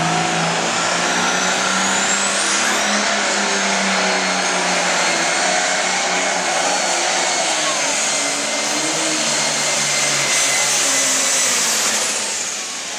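Turbocharged diesel engine of a hot farm class pulling tractor running hard on a pull. Its high turbo whine rises about two and a half seconds in, holds, then falls away near the end as the run ends.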